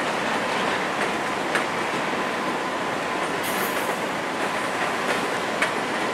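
Passenger train coaches rolling away over the station's switches. The wheel-on-rail noise is steady, with a faint thin squeal and a few sharp clicks as wheels cross rail joints.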